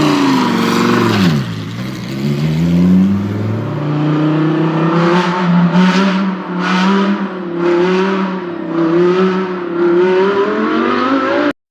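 Bentley Continental GT's twin-turbo V8 through a Quicksilver valved aftermarket exhaust, revved up and back down, then held at a higher speed with about six short rhythmic surges roughly a second apart. It cuts off suddenly near the end.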